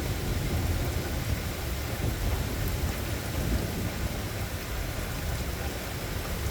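Steady rain falling, with a low rolling rumble of thunder underneath that eases off toward the end.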